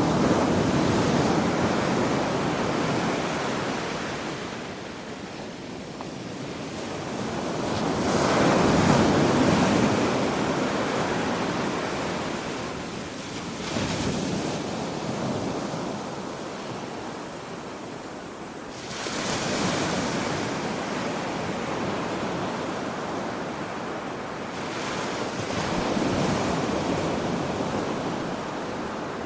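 Ocean waves breaking on a beach, coming in slow surges every five seconds or so that swell and wash back, with some wind.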